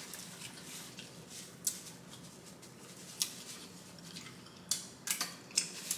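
Close-miked chewing: a few sharp, wet mouth clicks and smacks, single ones spaced out at first and a quick cluster near the end.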